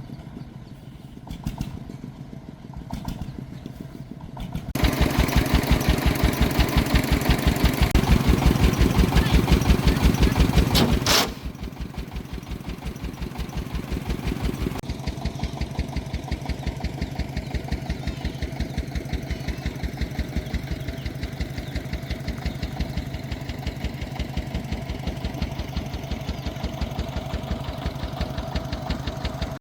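Công nông farm truck's single-cylinder diesel engine chugging with an even beat. About five seconds in it gets much louder for some six seconds, then drops back to a steady idle.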